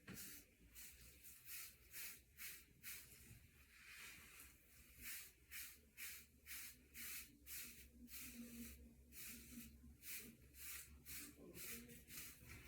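Faint, rhythmic swishing of brush bristles stroking through short hair, about two to three quick strokes a second.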